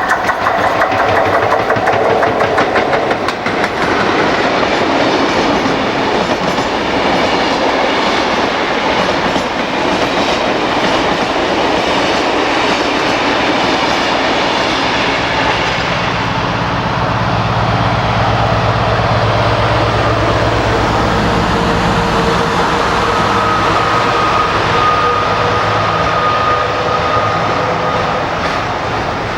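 Freight train running past: wagon wheels clattering over the rail joints in a steady, loud rush, with a deeper rumble for several seconds past the middle and a thin high tone near the end.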